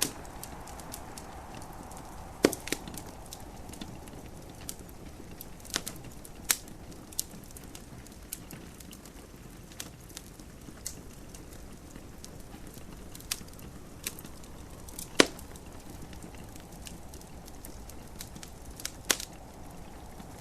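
Wood fire in a fireplace crackling, with scattered sharp pops at irregular intervals, the loudest about two and a half seconds in and again about fifteen seconds in, over a steady hiss of gentle rain.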